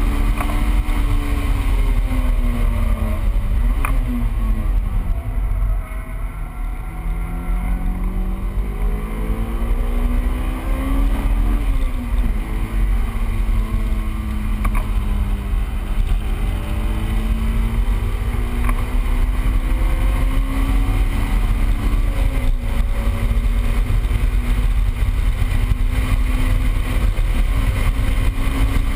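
Honda S2000's 2.0-litre four-cylinder engine heard from inside the cabin at track pace. It revs up in long climbs of pitch that fall away sharply about four, twelve and twenty-two seconds in, over heavy low wind and road rumble.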